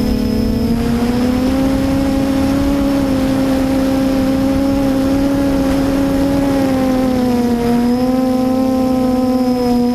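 QAV400 quadcopter's motors and propellers whining steadily in flight, the pitch rising about a second in, dipping briefly near the end and coming back up as the throttle changes. Wind buffeting rumbles low underneath.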